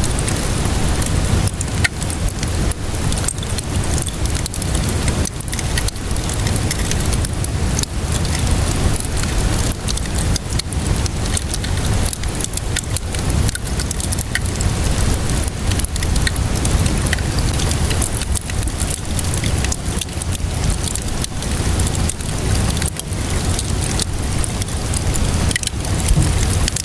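Wood fire crackling over steady rainfall: many short pops and crackles scattered through an even hiss of rain, with a low rumble underneath.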